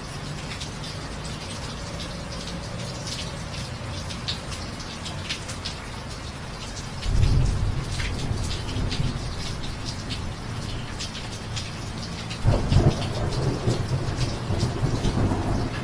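Steady rain falling, with fine ticks of individual drops, and two rolls of thunder: one starting suddenly about seven seconds in, a second near the end, each a low rumble that lingers.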